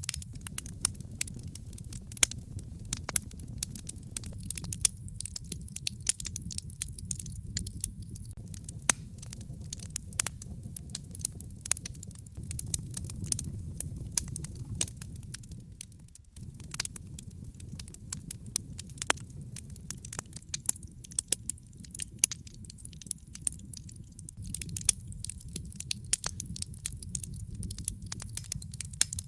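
Wood fire in a fireplace crackling, with frequent irregular sharp pops and snaps over a low, steady rumble.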